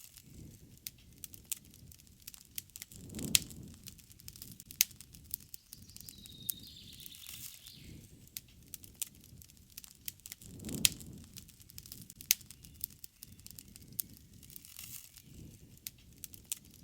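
Campfire crackling, with frequent sharp pops and low rushing swells of flame, the loudest pops about three and eleven seconds in. A bird calls once, high-pitched, about six seconds in.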